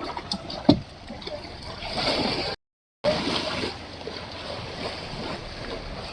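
Water splashing and sloshing, with a sharp knock less than a second in. The sound drops out completely for about half a second near the middle.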